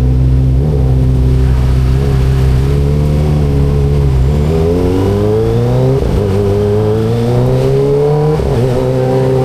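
Kawasaki ZX25RR's 250 cc inline-four engine running at steady revs, then accelerating with its pitch climbing, broken by two upshifts, about six and eight and a half seconds in.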